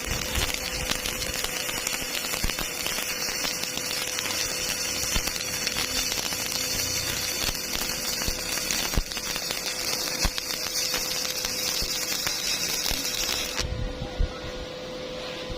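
Stick-welding arc crackling and sizzling steadily over a constant electrical hum, the crackle cutting off abruptly near the end as the arc is broken.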